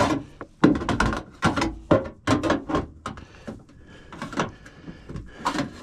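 Copper sheet metal being worked by hand along a miter line: a series of irregular knocks and metallic clatters, bunched in the first three seconds, then two more near the end.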